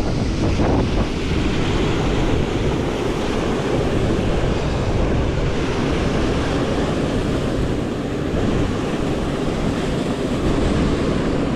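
Waterfall rushing steadily over rocks, with wind buffeting the microphone.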